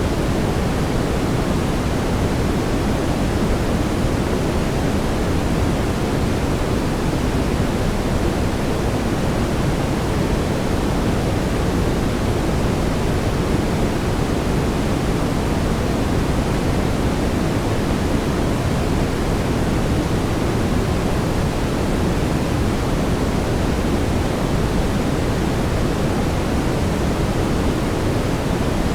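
Steady brown noise: an even, deep rushing hiss, heaviest in the low end, with no changes.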